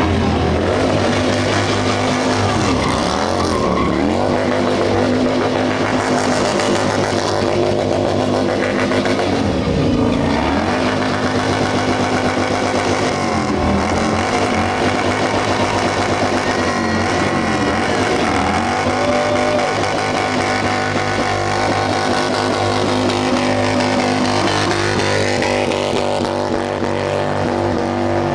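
Heavily built Harley-Davidson Road Glide's V-twin engine revving hard again and again, its pitch dropping and climbing every few seconds.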